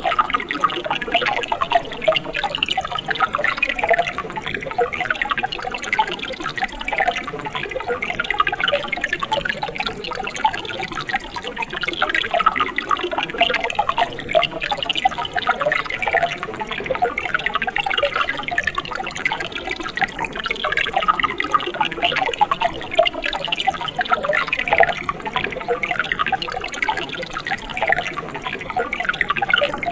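A mountain stream running over rocks, a steady babble of splashing and gurgling water with many small bubbling notes.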